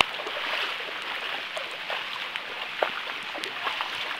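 Steady hiss of heavy rain and running floodwater, with scattered small ticks and splashes.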